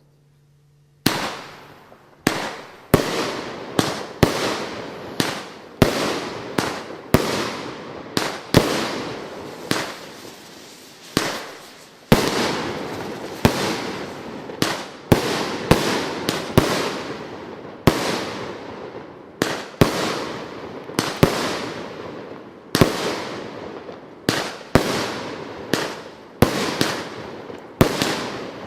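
Multi-shot consumer firework cake firing in sequence, starting about a second in. There is a sharp report roughly every second, each followed by a long fading tail as the shot bursts overhead.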